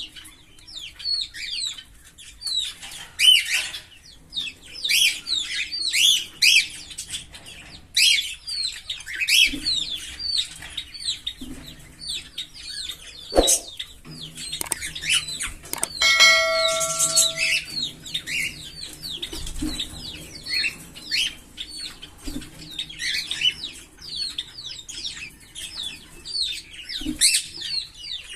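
A pair of green Fischer's lovebirds chirping in quick, high, continuous runs. A sharp click comes a little before halfway, and a steady ringing tone lasts about a second and a half just after halfway.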